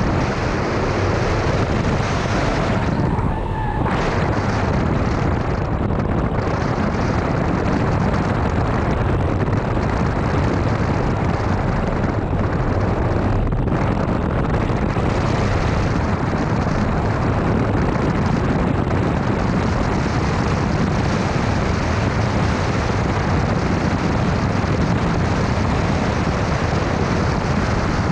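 BMW E46 330ci's straight-six engine running hard on track, buried in loud, steady wind and road rumble on the microphone, with a brief dip about three seconds in.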